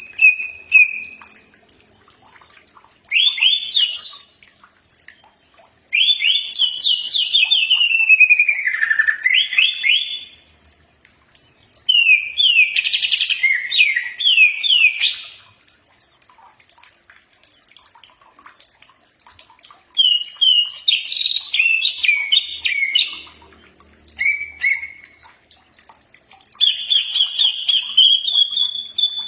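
Cucak ijo (green leafbird) singing: a series of whistled song phrases, each a second to four seconds long, made of quick sweeping notes that rise and fall, with short pauses between phrases.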